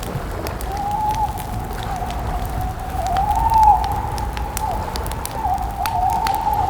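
Crackling campfire: scattered sharp pops and snaps over a low rumble, with a continuous wavering whistling tone that rises and falls throughout.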